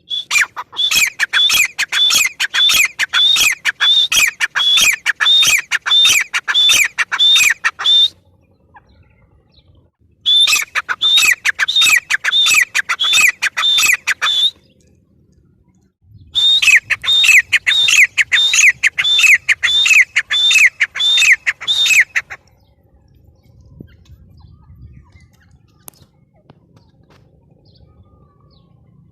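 Grey francolin calling: three bouts of loud, shrill notes repeated about three times a second, each bout several seconds long with short pauses between, the calling stopping about three quarters of the way through.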